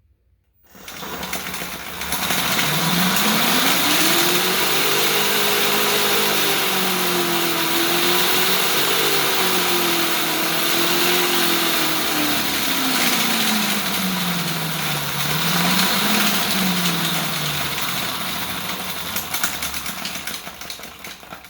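Battery-powered dirt bike's motor and chain drive running under load: a loud chattering rattle with a motor whine that climbs in pitch over a few seconds, wavers, then drops away as it slows near the end. The chatter comes from the worn chain and the uneven home-machined front sprocket.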